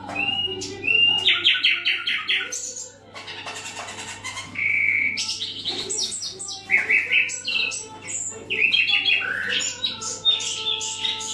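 Caged common nightingale singing varied phrases: trills of quick repeated notes, a long pure whistled note about halfway through, and rapid chattering runs. A faint steady low hum lies underneath.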